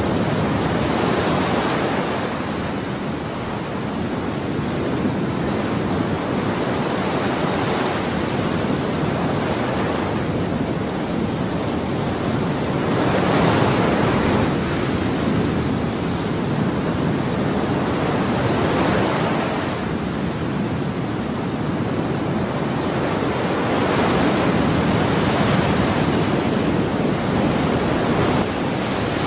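Ocean waves washing in and breaking on a shore, a steady rush of surf that swells and eases every few seconds.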